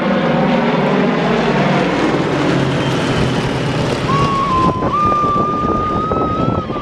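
Light propeller aircraft's piston engine running steadily. A thin high steady tone joins about four seconds in and glides down at the end.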